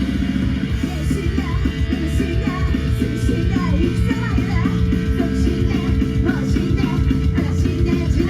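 Loud rock music with distorted electric guitar and a heavy beat, played over a live venue's sound system, with voices yelling and singing over it.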